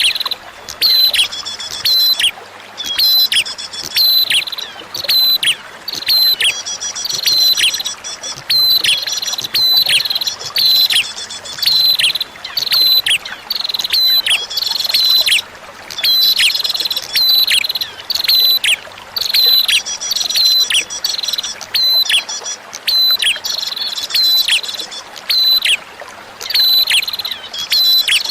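A prinia (prenjak) sings over and over in short, high, sharp phrases, each with quick falling notes, about one phrase every second or so. A faint steady hiss of running water lies beneath.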